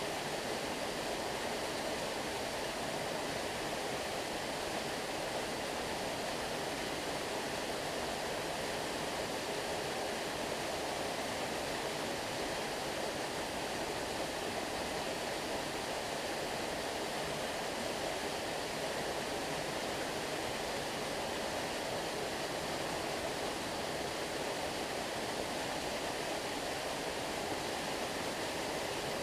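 Stream water flowing, a steady unbroken rushing.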